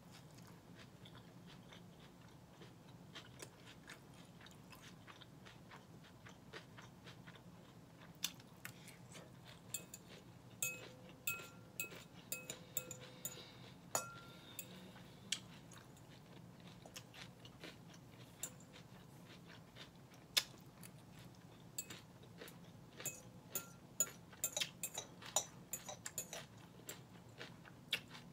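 Chewing mouthfuls of salmon Caesar salad, with crunching. A metal fork clicks and scrapes against a glass salad bowl, the clinks becoming frequent about a third of the way in. A few of the strikes leave the bowl ringing briefly.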